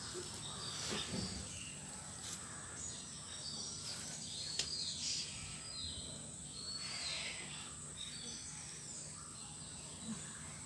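Faint background birdsong: scattered short chirps that rise and fall in pitch, over a steady high-pitched insect-like hum.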